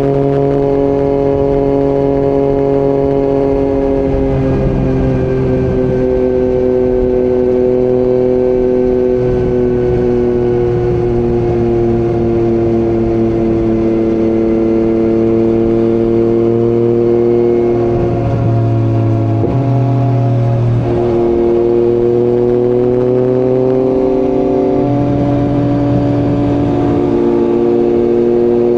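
Yamaha MT-09 inline-three motorcycle engine with an Akrapovic exhaust, running steadily under way, its note drifting slowly lower and then higher again with small shifts in throttle.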